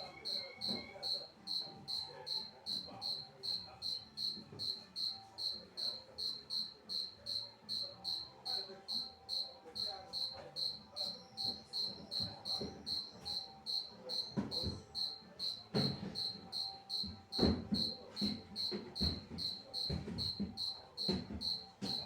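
A cricket chirping steadily in short, high pulses, about three a second. Occasional knocks and clatter break in, loudest in the second half.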